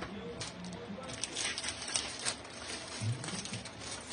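Irregular rustling, crackling and light clicks of objects and packaging being handled.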